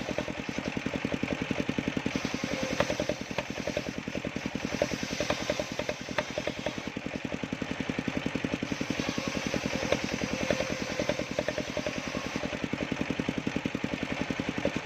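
Engine of a homemade sawmill running steadily, with a fast, even beat and occasional light ticks.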